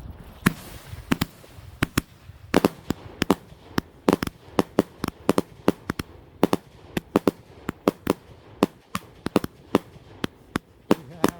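Fireworks going off in a rapid, uneven series of sharp bangs, several a second, from a consumer firework cake firing its shots.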